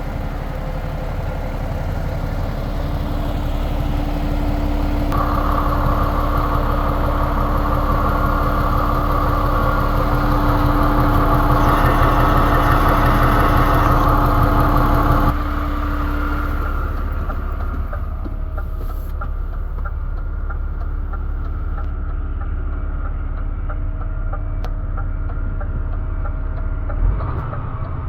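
DAF XF 440 truck's PACCAR MX-13 straight-six diesel running, growing louder over the first half and dropping off suddenly about fifteen seconds in, then running on steadily at a lower level.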